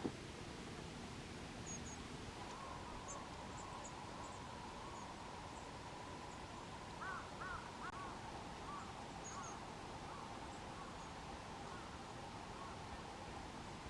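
Faint, very high, thin calls of Hokkaido long-tailed tits (shima-enaga), short and scattered. About seven seconds in, a run of several lower, arched calls from another bird.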